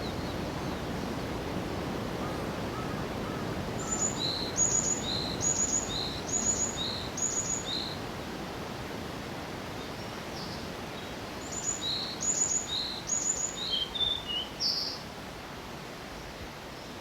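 Wild songbird singing in forest, a high note followed by a lower one repeated several times in quick succession, in two bouts, over a steady background hiss of forest ambience.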